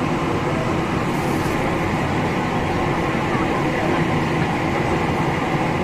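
Steady low rumble and rush of a ferry under way, its engines and the wind and water heard on the open deck, with no change throughout.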